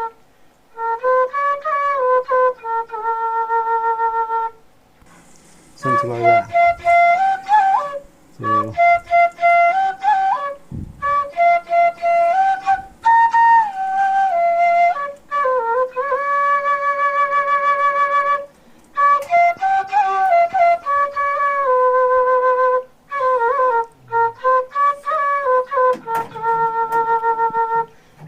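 Flute music playing a melody in short phrases with brief pauses between them.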